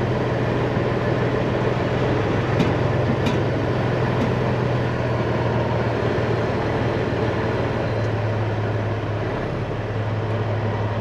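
Peterbilt 379 semi truck's diesel engine idling steadily, with a low drone whose pitch shifts slightly about eight seconds in and a few faint clicks in the first half.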